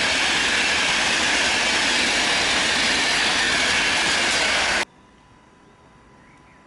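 Train passing close by on the rails: a loud, steady rush of wheels and cars that cuts off abruptly about five seconds in, leaving quiet background.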